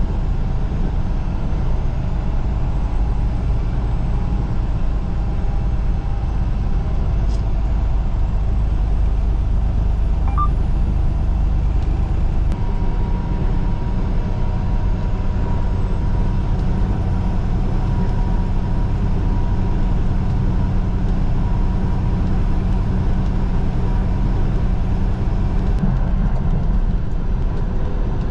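Semi truck running down the highway: a steady, loud low rumble of engine and road noise.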